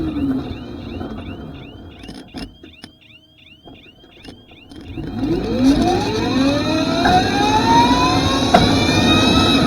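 Electric superbike's motor whine, quiet at first, then rising steadily in pitch and growing loud from about halfway as the bike accelerates. At the start, an earlier whine falls in pitch and fades away.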